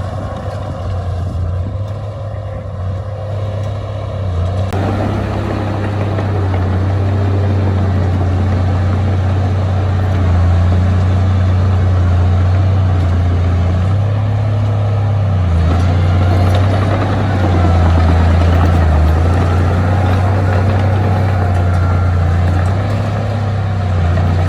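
Heavy diesel engine of earthmoving machinery running steadily with a deep hum. The sound grows fuller and noisier about five seconds in and stays that way.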